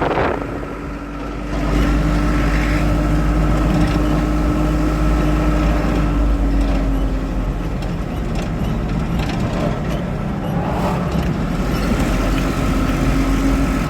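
Car engine and road rumble heard from inside a moving car, a steady drone with a low engine note that swells about a second and a half in.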